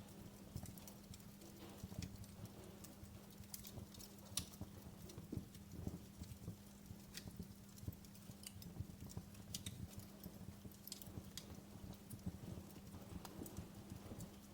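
Wood fire crackling in a fireplace: irregular sharp pops and snaps over a low rumble of flames, with a faint steady low hum.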